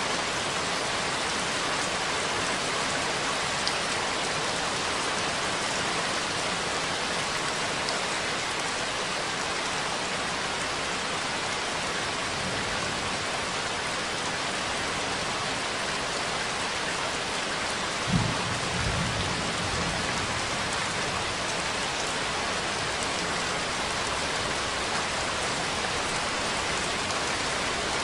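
Steady rain, with a short low rumble of thunder about two-thirds of the way through.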